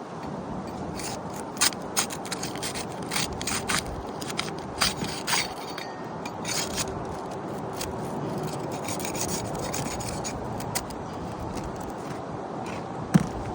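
A metal tool scraping and rubbing under asphalt shingles in irregular strokes, working them loose from the roof. A single sharp knock just before the end.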